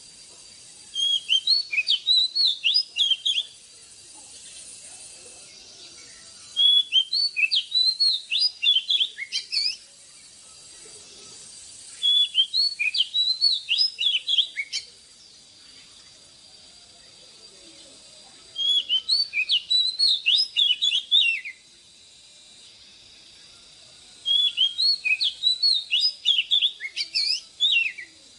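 Oriental magpie-robin singing: five bursts of quick, clear whistled notes, each a few seconds long, repeating about every six seconds over a faint steady high-pitched hiss.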